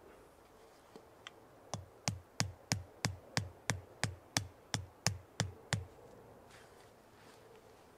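Rhythmic drum beat: a couple of scattered hits, then about a dozen evenly spaced kick-drum-like hits at roughly three a second, each a low thump with a sharp click on top.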